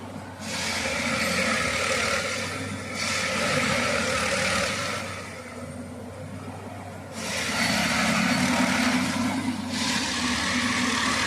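Plasser Unimat track tamping machine running with a steady diesel engine hum, overlaid by repeated surges of hissing working noise each lasting about two seconds: four in a row, with a lull between the second and third.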